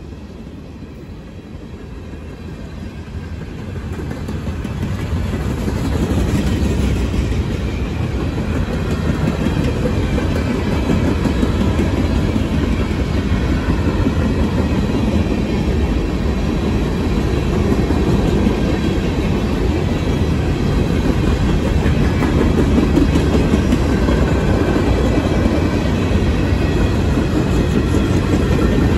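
Empty freight cars of a rock train rolling past at speed: a steady rumble with the clatter of wheels on the rails. It grows louder over the first several seconds, then holds.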